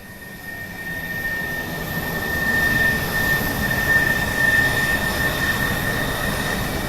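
Jet aircraft engine noise: a broad roar with a steady high whine that grows louder over the first few seconds, then holds.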